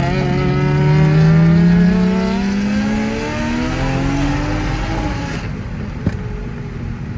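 Turbocharged car engine accelerating hard under full throttle, its pitch climbing steadily for about four and a half seconds. The throttle is then lifted, and a single sharp pop follows about a second later.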